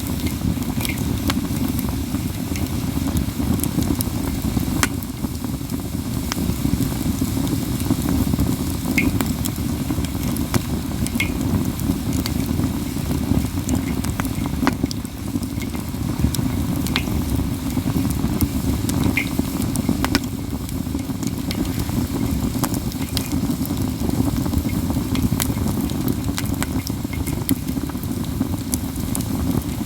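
Katsura-wood campfire crackling steadily, with scattered sharper pops over a steady low rush.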